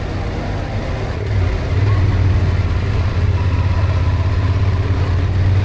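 Yamaha Ténéré adventure motorcycle's engine running steadily under way, getting louder about a second and a half in.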